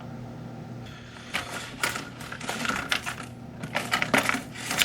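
Plastic lamp casing and parts clicking and rattling as they are handled, a quick irregular run of light clicks and knocks starting about a second in.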